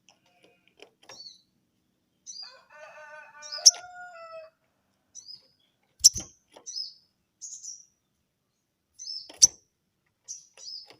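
Sogon bird calling back with short, high, falling chirps, often in quick pairs, agitated by a rival's call. A held, many-toned call sounds for about two seconds early on, and three loud sharp knocks come through.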